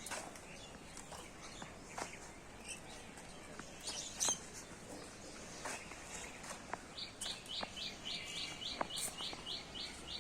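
A bird calling: scattered short chirps, then from about seven seconds in a rapid series of short, falling high notes, about four or five a second.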